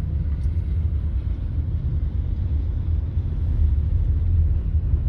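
Steady low rumble of a vehicle driving at road speed, heard from inside the cabin: engine and tyre noise.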